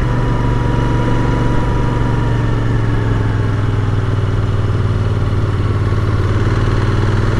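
Royal Enfield Continental GT 650's 648 cc parallel-twin engine running at a steady, unchanging pitch.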